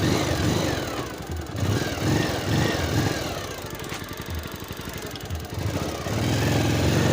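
Motorcycle engine revved in repeated short bursts, then held higher for a longer stretch near the end, as the rider tries to get the bike moving out of a stuck spot on the trail.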